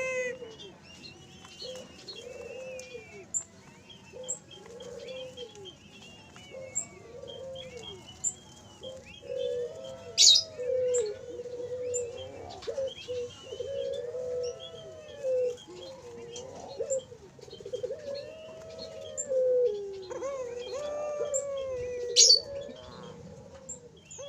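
Ringneck doves (puter) making repeated soft, arching coo-like calls over and over, with smaller birds chirping higher above them. Two sharp clicks stand out, one about ten seconds in and one near the end.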